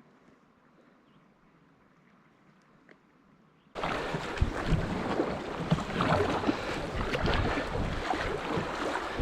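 Near silence for about four seconds, then a sudden cut to loud rushing water and wind buffeting the microphone aboard a kayak on a river, with low knocks and thumps throughout.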